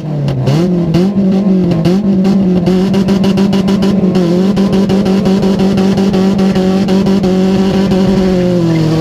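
Renault Clio's four-cylinder engine heard from inside its stripped, roll-caged cabin. It revs up in the first second and then holds high revs steadily under load, with rapid rattling clicks over it for the first few seconds. Its pitch drops a little near the end.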